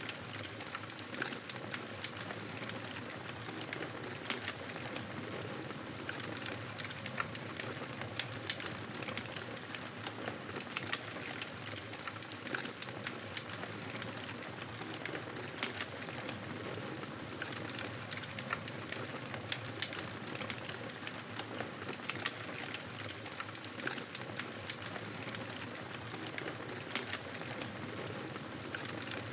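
Fire in a fireplace crackling steadily: a constant hiss dotted with many small sharp pops and snaps.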